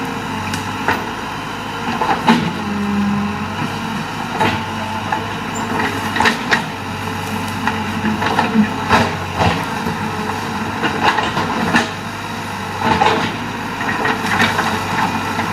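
Excavator's diesel engine running steadily, with repeated clanks and knocks from the machine at work.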